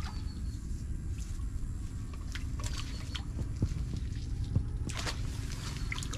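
An electrofishing pole and a hand net being worked through a shallow flooded ditch: scattered light clicks and soft knocks over a steady low rumble, with two slightly louder knocks about three and a half and four and a half seconds in.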